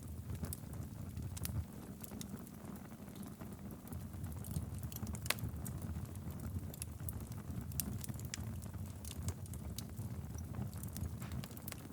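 Wood fire burning steadily in a fireplace: a low, even rumble of flames with scattered sharp crackles and pops, one louder pop about five seconds in.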